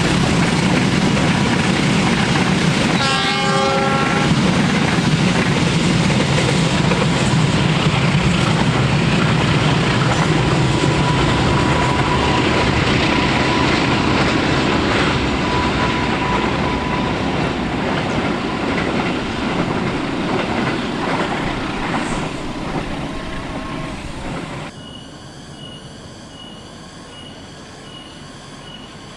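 Cement freight train passing: a long, loud rumble of the wagons with clickety-clack, and a locomotive horn blast about three seconds in. The rumble slowly fades, then the sound cuts abruptly to a much quieter scene with a faint ring repeating about once a second.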